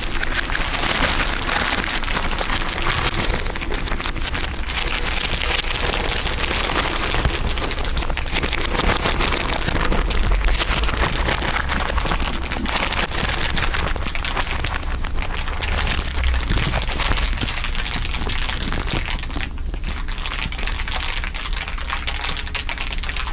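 Several layers of crinkling laid over one another, making a dense, unbroken crackle of fine clicks like rain or a fire.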